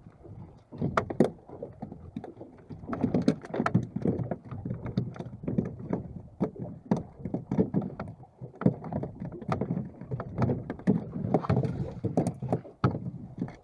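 Irregular slaps and knocks of small waves against the hull of a small wooden-style fishing boat (wasen) on the water.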